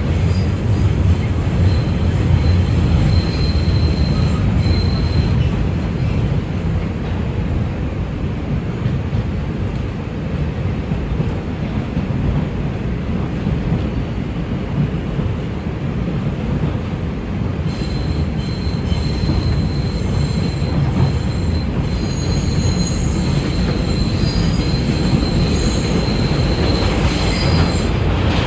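NYC Subway R142 train running on the 2 line, with a steady low rumble of wheels on rail. High-pitched wheel squeal comes and goes over it, fading out after about six seconds and returning after about eighteen.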